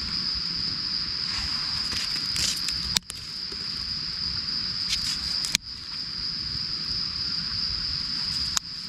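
Crickets chirping in a steady, high, unbroken chorus, with a few soft crackles. The sound breaks off with a sharp click three times: about three seconds in, five and a half seconds in, and near the end.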